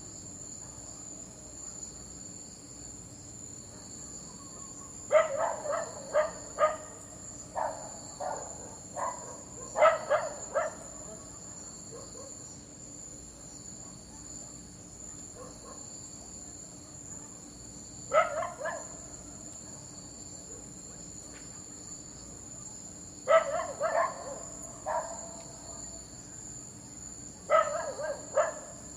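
A dog barking in clusters of several quick barks, with long pauses between, over a steady high-pitched background hiss.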